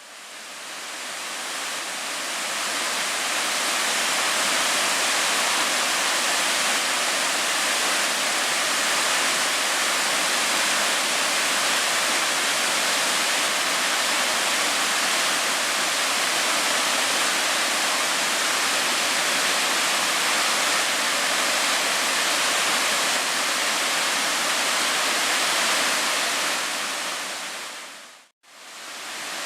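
Steady rushing water with no wave rhythm. It fades in at the start, cuts out briefly near the end, then starts again.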